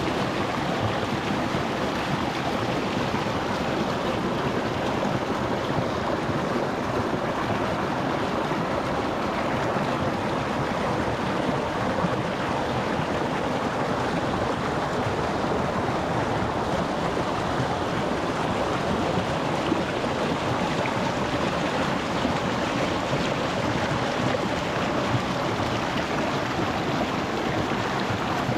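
Small rocky mountain stream flowing and splashing over stones, a steady, even rush of water heard close to the surface.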